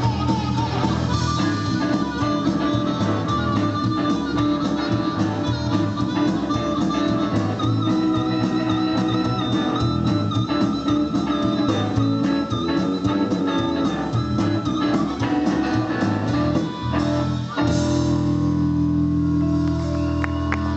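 Live blues band playing, with guitar leading, closing on a held, ringing chord about three-quarters of the way through.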